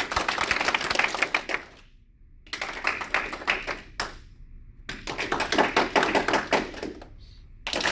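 Audience clapping in short bursts: three rounds of about two seconds each with quiet gaps between, and a fourth round starting near the end. This is applause voting for each improviser in turn, to decide who is out.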